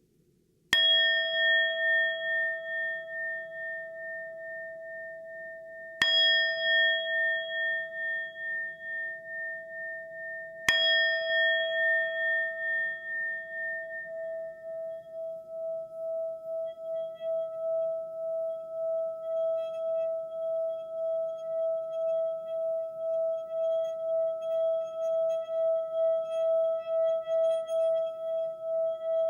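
Singing bowl struck three times, about five seconds apart, each strike ringing on and fading slowly. From about twelve seconds in, one steady, evenly pulsing tone is held.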